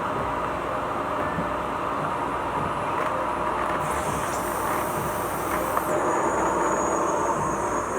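Vacuum cleaner running steadily. A thin high whine comes in about four seconds in and drops to a lower pitch near six seconds.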